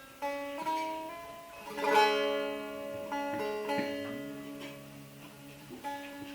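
Bağlama saz, the long-necked Turkish lute, played as a free improvisation: plucked notes ringing on in turn, with a loud struck chord about two seconds in.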